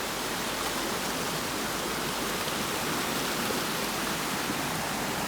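Waterfall and stream water rushing, a steady even roar.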